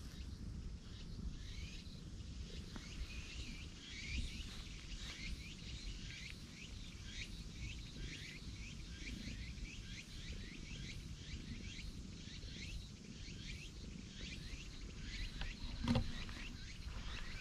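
Small birds chirping in the background: many short, quick falling chirps, several a second, over a low steady rumble. One sharp knock near the end.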